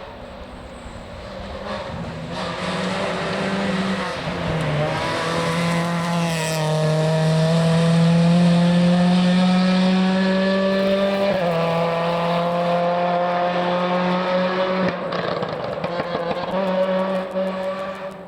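Rally car's engine accelerating along the stage, its pitch climbing steadily between gear changes, getting louder as it approaches, staying loud through the middle and fading near the end.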